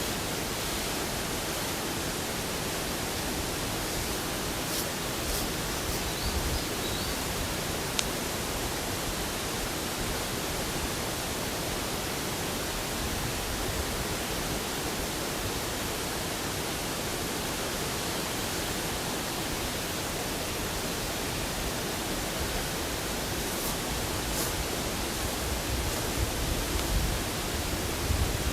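Steady rushing noise of outdoor ambience, with a few faint clicks and one sharp tick about eight seconds in.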